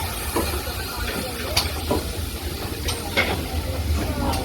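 GWR Manor-class 4-6-0 steam locomotive hissing steam over a steady low rumble, with several sharp clicks through it.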